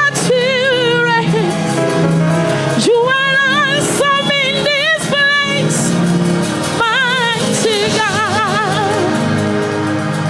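A woman singing gospel in long, ornamented phrases with strong vibrato: three phrases with short breaks between them, over steady, sustained instrumental backing.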